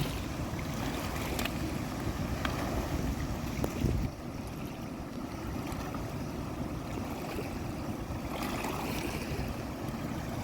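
Steady outdoor rushing noise of wind buffeting the microphone over flowing water, with a few faint clicks and a brief louder gust about four seconds in.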